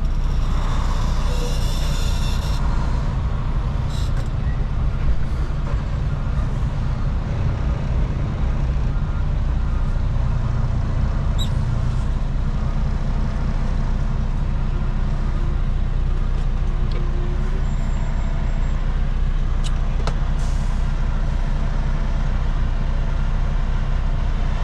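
A semi truck's diesel engine running steadily, heard from inside the cab as a constant low rumble. A short hiss comes about a second in, and there are a few light clicks.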